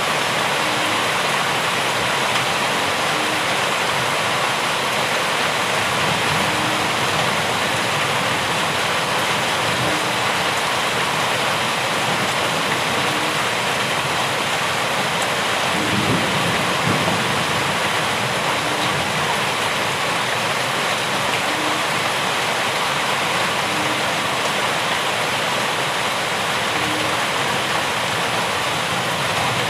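Steady heavy rainfall, a dense even hiss of rain, with a brief low rumble about halfway through.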